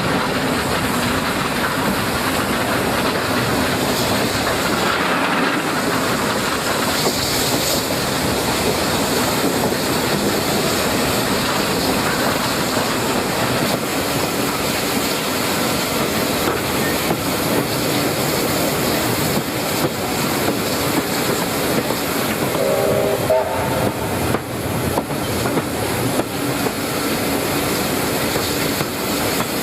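Train running along the rails with a steady rumble and wheel clatter over the track. A short whistle-like tone sounds about three quarters of the way through.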